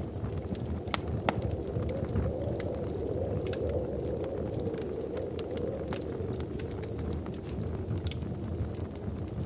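Fire crackling in a fireplace: a steady low rush of flames with frequent sharp pops and snaps scattered irregularly throughout.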